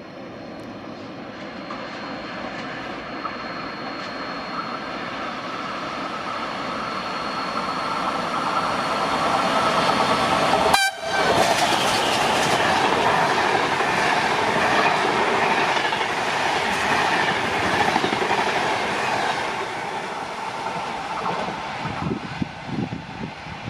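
A train passing through the station without stopping, its running noise building for about ten seconds and then loud for several seconds as it goes by before fading. The sound cuts out for an instant about halfway, and there are low thumps near the end.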